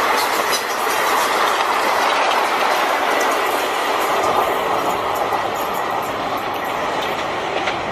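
Indian Railways passenger train with blue coaches passing at speed: a steady rush of wheels on rail with rapid clicks and clatter over the rail joints, easing slowly as the end of the train goes by.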